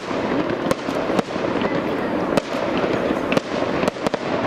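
Aerial fireworks bursting overhead: a continuous crackle of sparks with several sharp bangs spread a second or so apart.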